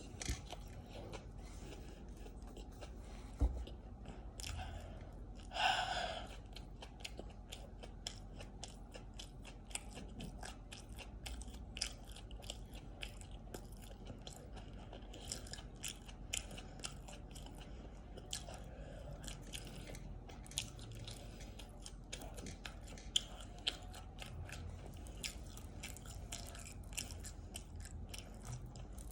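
A person chewing and biting food close to the microphone, with a steady run of small, crisp crunching clicks. One louder, longer mouth sound about six seconds in.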